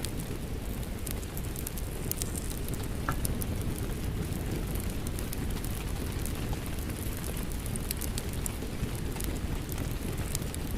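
Rain falling steadily, mixed with a wood fire crackling, with many small sharp pops and snaps throughout.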